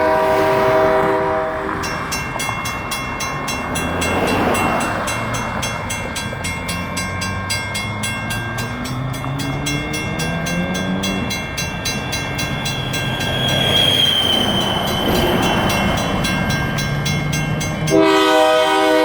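Diesel locomotive horn sounding a chord, cutting off about two seconds in. Then grade-crossing bells ring with fast even strokes and steady tones, over the diesel engines of the passing GP38-2 locomotives, whose pitch rises and falls. The horn sounds again near the end.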